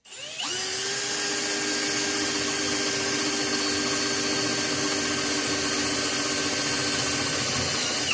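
Electric drill boring a hole through aluminum bus-bar stock. The motor spins up over about half a second, runs at a steady speed, then cuts off near the end.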